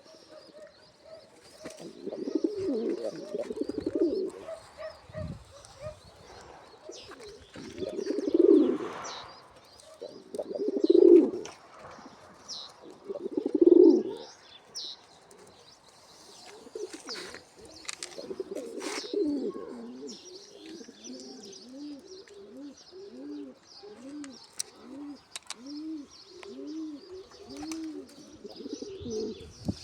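Pouter pigeons cooing: several loud, throaty coo bouts a few seconds apart, then a long run of short repeated coos, a little more than one a second, in the later part. Faint high chirping of small birds runs underneath.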